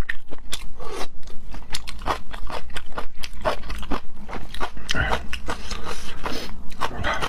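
Close-miked chewing: a quick, continuous run of wet clicks and crunches, several a second.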